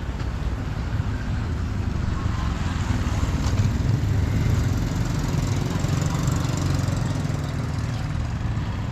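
A small engine running steadily, a low rumble that swells about three seconds in and eases back a few seconds later.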